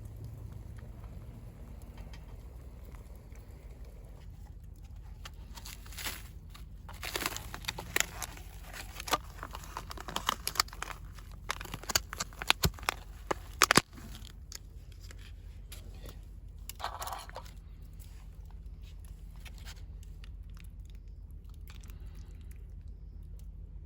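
Crunching and crinkling sounds with many short sharp clicks, bunched in the middle and ending in one sharp loud click, over a steady low rumble.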